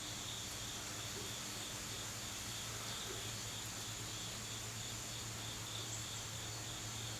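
Faint steady background of an insect, a cricket, chirping in an even pulse about three times a second, over a steady low hum.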